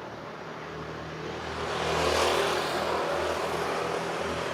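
A motor vehicle passing close by on the street, its engine and tyre noise swelling to a peak about two seconds in and then easing off.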